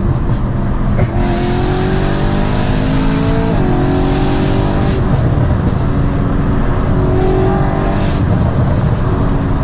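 BMW E92 M3's S65 V8 with an aftermarket exhaust, heard from inside the cabin while accelerating hard: the engine note climbs with the revs, dips at an upshift about three and a half seconds in, then climbs again.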